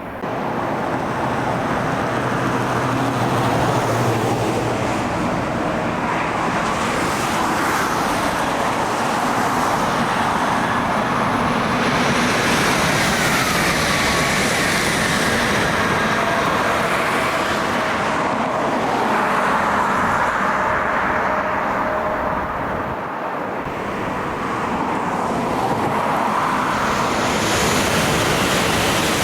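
Steady road traffic: cars and trucks passing continuously on a highway, one passing vehicle's tone falling in pitch about halfway through.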